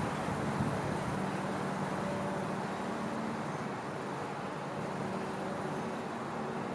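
Steady outdoor background of distant road traffic, a continuous even rumble with no bird calls standing out.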